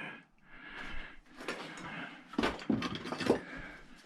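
Small metal tools or bits being handled and set down: a handful of short clinks and knocks.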